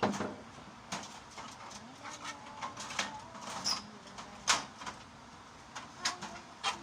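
Irregular knocks and clatters of sheet-metal fluorescent light housings being handled and sorted, the loudest right at the start and about four and a half seconds in.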